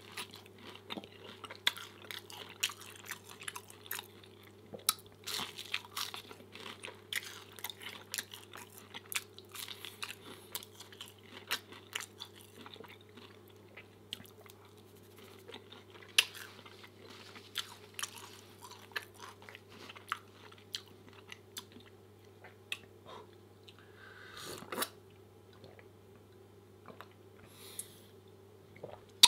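Close-miked chewing of pancakes: wet mouth clicks and smacks, busy at first and thinning out past the middle, with a louder slurp-like noise at about 24 seconds.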